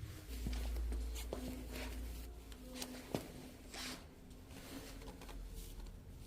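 Handling noises from light work: scattered small clicks and rubbing, a low rumble for the first couple of seconds, and one sharper click about three seconds in.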